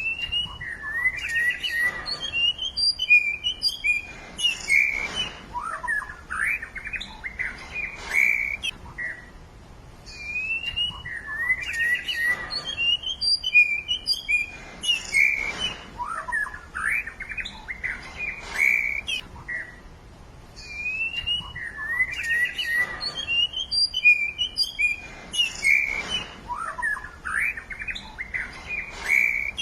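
Songbirds chirping and singing in quick, high whistled notes and trills. The same run of calls repeats about every ten seconds, with a short lull between runs, as if the recording is looped.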